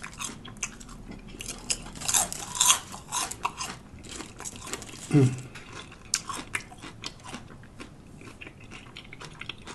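Close-up crunchy chewing and biting of a lettuce-wrapped Italian sub sandwich, with irregular wet crackles, and a brief low vocal sound about five seconds in.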